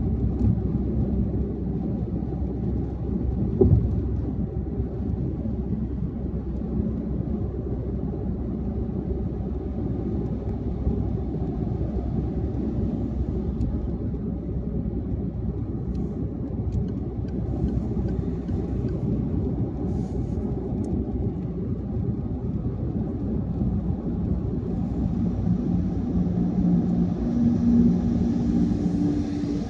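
Car driving on a highway: a steady low rumble of tyre and engine noise. A single knock comes a few seconds in, and near the end a humming note and a hiss join in.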